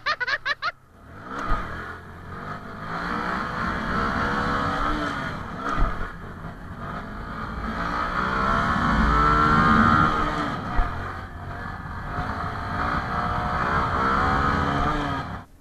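Honda MSX125 SF minibike's single-cylinder engine revving up and down as the rider tries to lift the front wheel into a wheelie. The revs rise and fall repeatedly, building to the loudest about nine to ten seconds in, then ease off.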